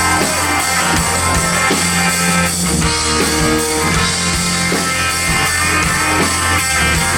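Live country-rock band playing a song's instrumental intro: electric guitar, bass and drum kit with a steady beat.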